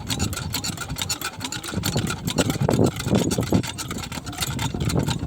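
Power tiller's single-cylinder diesel engine running, its rapid firing beats steady and louder for a second or so in the middle.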